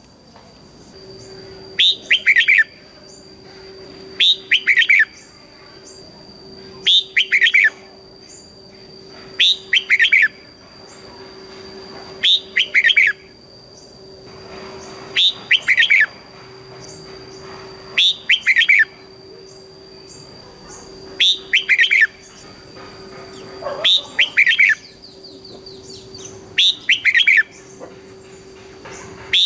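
Red-whiskered bulbul singing its double-phrase song: short, loud phrases of clear falling notes, repeated about every two and a half to three seconds, over a faint steady hum.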